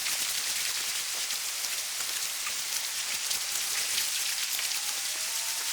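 Steady water noise: a dense hiss of many tiny splashes and droplets pattering on a surface.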